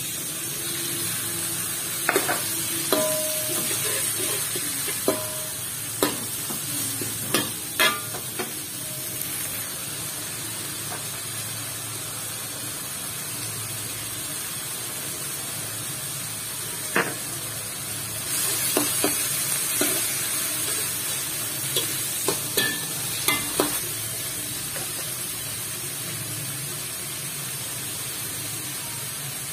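Shrimp and chopped aromatics frying in oil in a metal wok, with a steady sizzle. A slotted metal spatula clinks and scrapes against the wok as it stirs, most often in the first few seconds and again past the middle.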